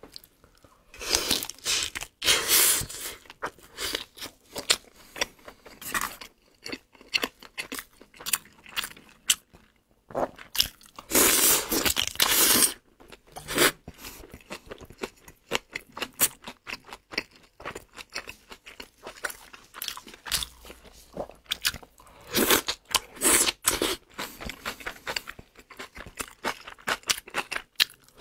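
Close-miked chewing and biting of sausage: irregular wet mouth clicks with louder stretches of chewing about a second in, around ten seconds in and again after twenty seconds.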